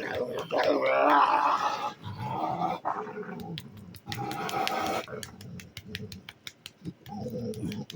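Pitbull–Rottweiler mix dog 'purring': a low, rough rumbling growl of contentment, in several bouts, loudest in the first two seconds and again around the middle.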